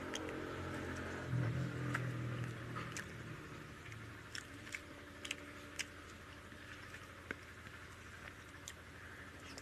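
A person eating by hand: chewing a mouthful of rice, dal and omelet, with scattered short wet clicks, over a low steady hum that is loudest in the first few seconds.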